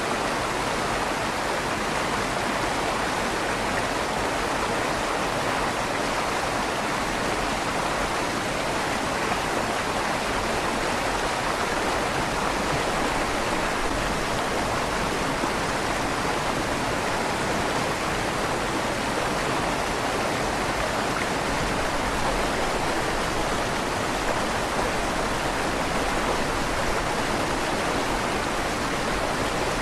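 River water flowing and rushing steadily beneath a stone bridge, with a slight echo from inside the bridge's tunnel.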